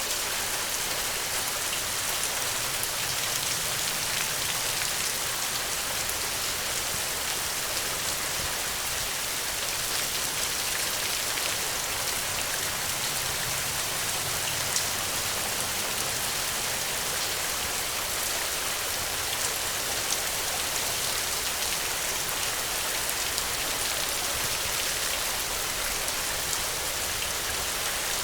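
Steady rain falling on the ground: a continuous hiss of many small drops, with a few louder single drop ticks standing out.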